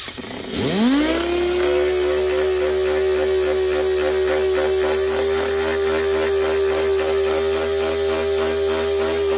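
Dual-action (DA) sander spinning up, its whine rising in pitch over about a second and a half, then running steadily at a constant pitch as it sands the steel axe head with 120-grit paper.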